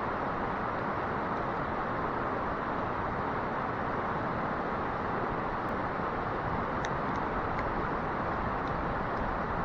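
Steady rushing of a mountain stream, an even noise that does not change, with a few faint small clicks about seven seconds in.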